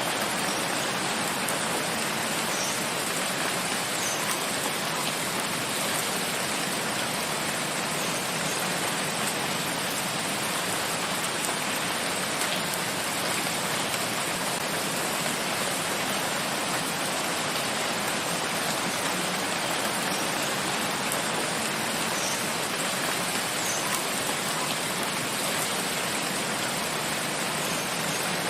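Steady rain falling in a forest: an even, continuous hiss of downpour with no breaks or changes in strength.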